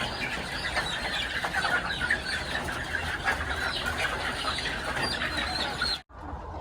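A large flock of laying hens clucking and squawking all at once, a dense continuous chatter. It breaks off abruptly about six seconds in.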